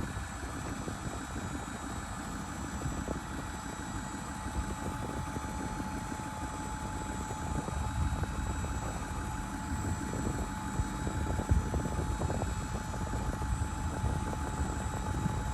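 2008 Ford F-550 dump truck's engine idling steadily.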